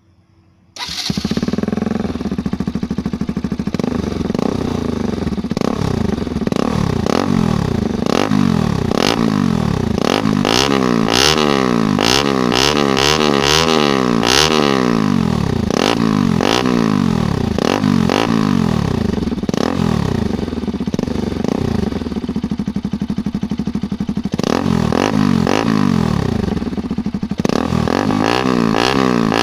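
Bajaj Pulsar RS200 single-cylinder engine with an aftermarket sleeve-type muffler. It comes in suddenly about a second in, then runs and is revved again and again, its pitch rising and falling back with each throttle blip.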